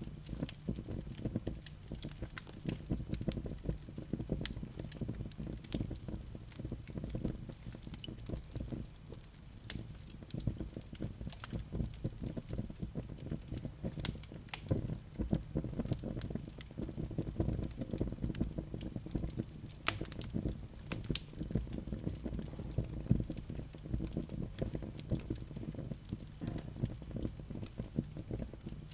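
Wood fire in a fireplace crackling: a constant stream of irregular sharp pops and snaps over a steady low rumble of the burning logs.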